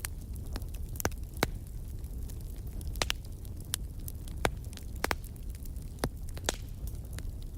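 Wood fire crackling: irregular sharp pops and snaps, a dozen or so, over a steady low rumble of burning.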